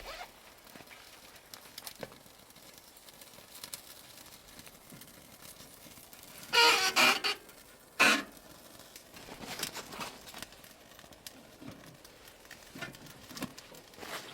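Small clicks and rustles of things being handled, with two louder, brief rustling bursts a little past the middle.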